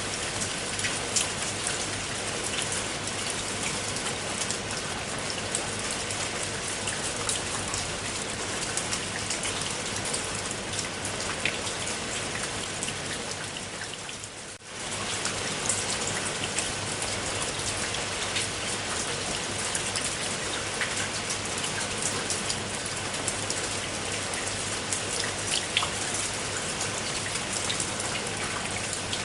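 Steady rain falling on a surface, a constant hiss with many individual drops ticking through it. About halfway through, the sound briefly fades down and comes back up.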